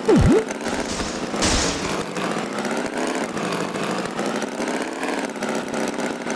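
Animated tractor's engine running steadily, a cartoon sound effect. A quick swoop in pitch, down and back up, comes right at the start, and a short hiss about a second and a half in.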